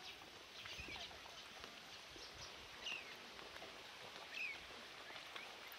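Small birds chirping: short, high, falling calls every second or so over a faint outdoor background, with soft low thumps of footsteps on the path.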